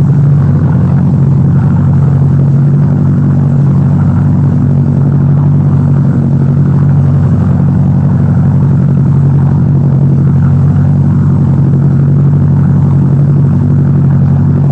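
A loud, steady low drone that holds one unchanging pitch throughout, with no breaks or changes.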